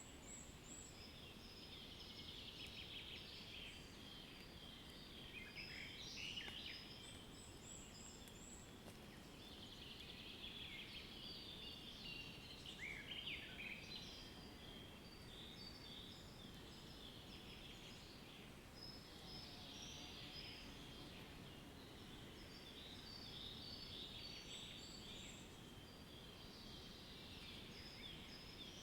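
Songbirds chirping and trilling quietly in repeated bouts, several calls overlapping, over a faint steady background hiss.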